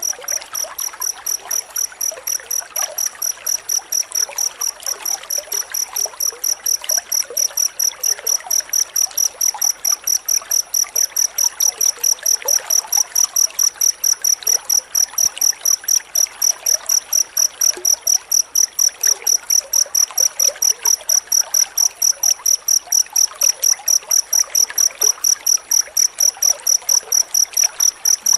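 A cricket chirping close up in a fast, even pulse, about four to five high chirps a second, growing louder over the first several seconds and then holding steady.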